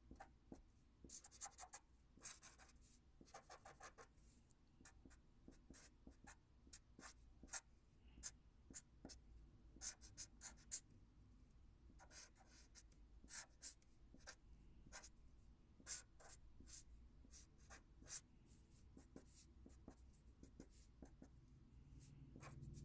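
A pen drawing on paper: short strokes in irregular clusters, with quiet gaps between, over a faint low room hum.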